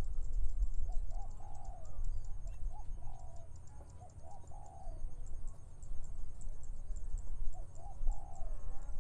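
Doves cooing: short phrases of soft, arched coos, repeated every second or two with a pause in the middle. Under them there is a gusty low wind rumble on the microphone and a fast, high-pitched ticking.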